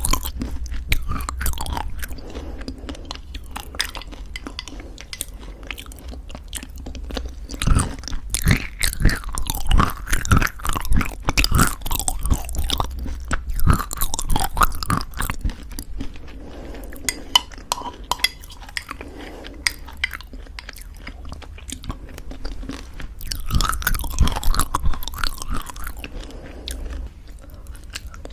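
Close-miked chewing of crunchy homemade granola in thick yogurt: crackly crunching with wet, sticky mouth sounds, in bursts that thicken and ease off.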